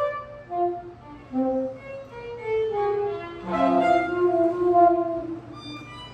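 Free-jazz improvisation led by a violin playing wandering melodic lines against other instruments. About halfway through more voices enter together, including a low held note, and the music grows louder.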